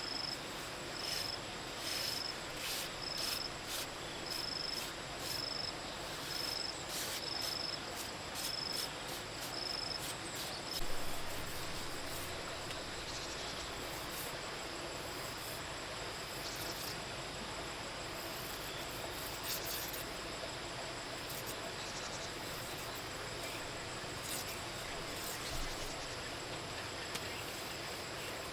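Insect chirping: short, high chirps about once a second that stop about ten seconds in. Scattered sharp clicks and an even hiss run underneath.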